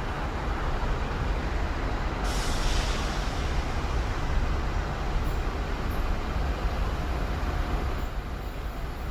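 Línea Mitre commuter train arriving at the station, its steady low rumble running throughout, with a burst of air hiss about two seconds in.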